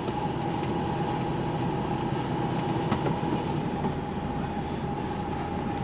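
Steady noise inside a lorry cab: the diesel engine running, with a constant whine.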